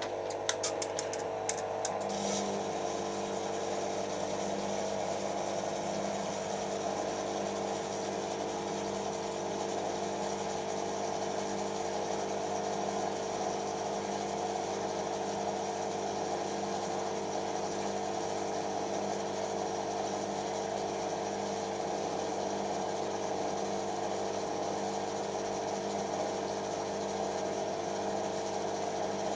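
Creda Simplicity W120VW washing machine on a short spin, its motor running with a steady whine and an evenly pulsing low hum, with a few rapid clicks in the first two seconds. The motor is struggling to put power in smoothly, which the owner calls really ropey.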